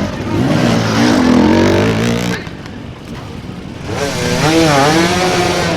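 Dirt bike engines revving, the pitch rising and falling with the throttle, in two spells with a quieter gap between them.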